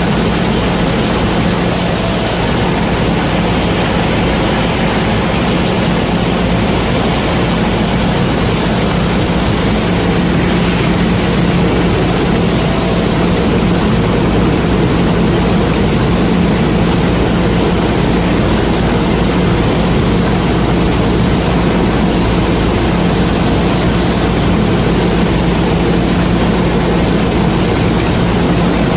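Combine harvester running steadily while harvesting maize: engine and threshing machinery make a loud, unbroken mechanical noise with a steady low hum.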